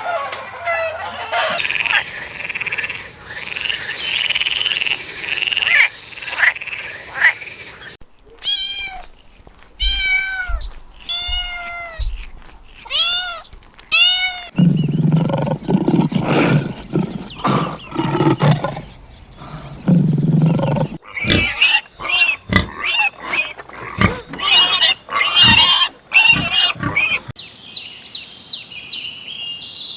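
A run of different farm animal calls, changing suddenly several times: a series of separate calls that arch up and down in pitch, then deep, heavy calls, then a busy stretch of sharp clicks and calls.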